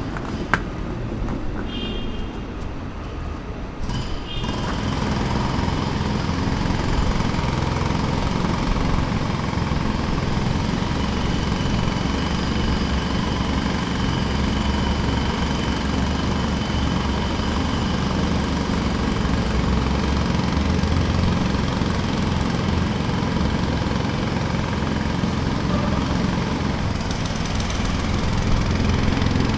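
Pneumatic jackhammer running steadily, growing louder about four seconds in.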